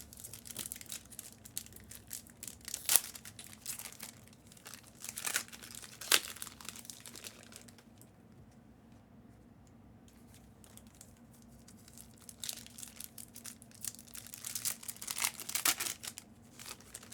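Trading-card pack wrappers crinkling and tearing as packs are ripped open, in scattered bursts with two sharper snaps in the first half and a quiet stretch of a few seconds in the middle.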